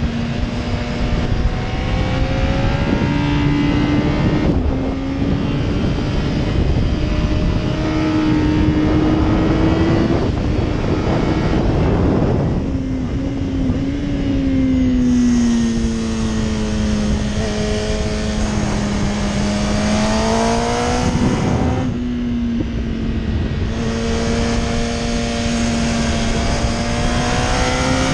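Yamaha R1 RN12 inline-four engine running hard at high revs on track, its pitch rising and falling through the corners, with a few brief dips and steps. Heavy wind rush on the microphone at speed.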